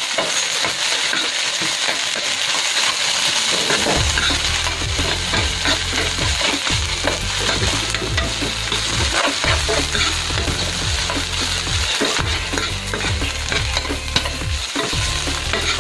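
Canned sardines and onions frying in hot oil in a pan: a steady sizzle, with a metal spoon clicking and scraping against the pan as it stirs. A low hum comes in underneath about four seconds in.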